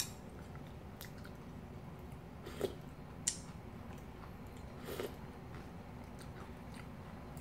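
Soft chewing of cold kimchi noodles, with a few short clicks as a spoon moves in the glass bowl of broth.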